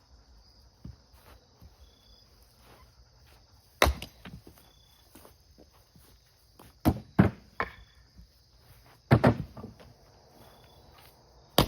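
Firewood being split by hand: several sharp, separate blows of a splitting tool striking wood rounds, two of them in quick succession about seven seconds in. Crickets chirp steadily throughout.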